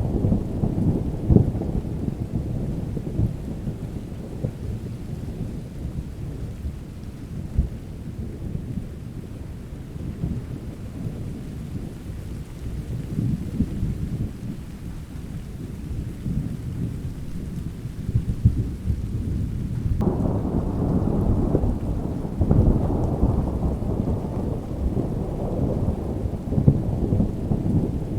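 Thunderstorm: thunder rumbling low and continuously over steady rain. About two-thirds of the way through, a fuller, louder roll of thunder starts suddenly.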